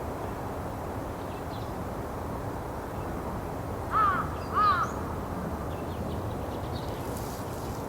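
Dusky thrush calling: two short, harsh notes about half a second apart, about halfway through, with a few faint, higher chirps and a steady low outdoor rumble behind them.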